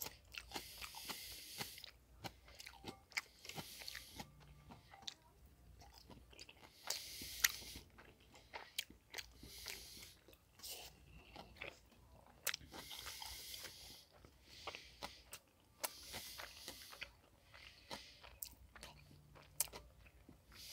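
Faint, close-up chewing and wet mouth sounds of a man eating sushi, with many small clicks and smacks between bites.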